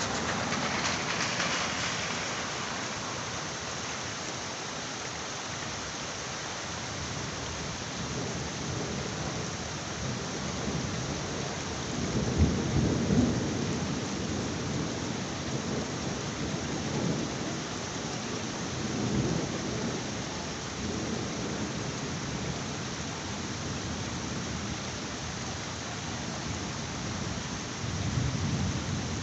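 Heavy rain falling steadily, with rolling thunder: the loudest roll comes about twelve seconds in with a sharp crack, followed by lower rumbles, and another roll starts near the end.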